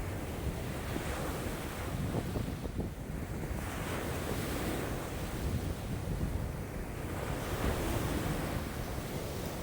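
Lake waves breaking and washing in strong wind, swelling and fading every two to three seconds, over a constant low rumble of wind buffeting the microphone.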